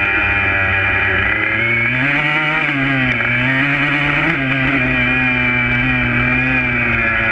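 Yamaha YZ125 two-stroke single-cylinder engine running at steady revs, its pitch rising briefly about two seconds in and again just past four seconds before settling back.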